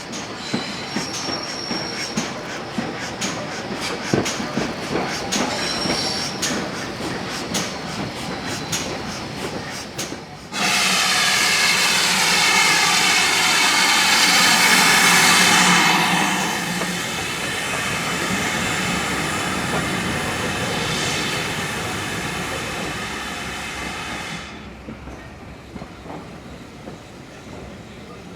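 Steam-hauled train on a heritage line: a run of sharp clicks from wheels over the rails, then about ten seconds in a sudden, much louder sustained rush with a ringing tone that fades away over the next several seconds and drops off sharply near the end.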